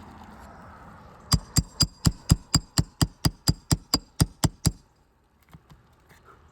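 A roofing hammer strikes a nail puller about fifteen times in quick succession, roughly four blows a second, each with a high metallic ring, to work the last roofing nail loose under a shingle. The blows stop abruptly, and a few faint clicks follow.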